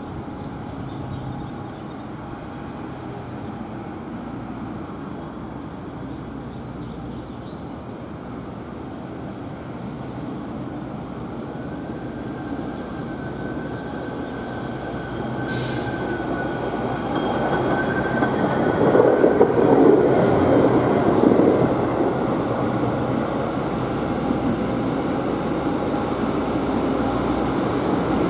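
Rail equipment rolling along the track and drawing closer, its rumble building to a peak about two-thirds of the way in. A thin steady wheel squeal and a few sharp clicks come in the middle.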